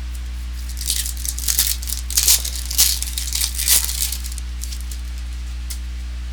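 Plastic packaging crinkling and rustling in a quick flurry for about three seconds as trading cards are handled, over a steady low hum.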